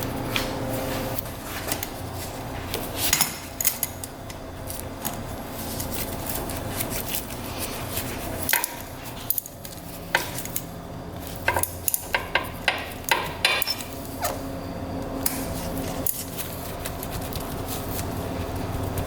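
Metal hand tools and engine parts clinking and clanking, with a few sharp clanks about three seconds in and a quick run of them between about ten and thirteen seconds, over a steady low hum.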